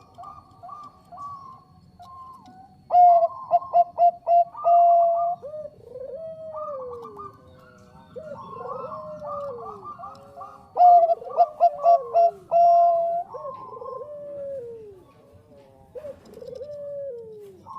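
Bangkok-strain zebra dove (perkutut) singing: a fast stuttering trill, then loud runs of short clipped coos alternating with long downward-sliding coos, repeated several times.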